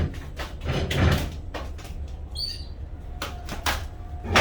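A small bird fluttering and bumping against window glass, a run of quick taps and a few heavier thumps. It gives a short, high chirp about two and a half seconds in.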